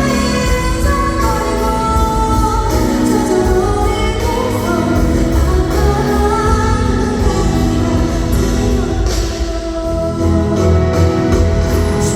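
Live pop music: a woman singing held notes over band accompaniment with a steady bass line.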